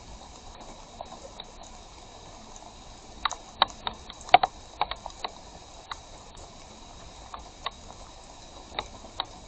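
Steady hiss of heavy rain, broken by irregular sharp taps, with a quick cluster of louder ones in the middle.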